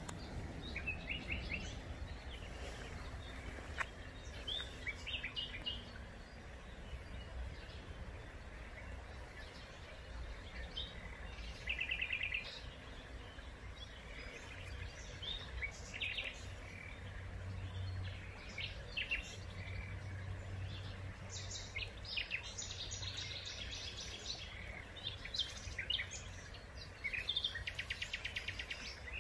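Small birds calling and singing: scattered chirps and several fast trills, the longest ones near the end, over a steady low background rumble.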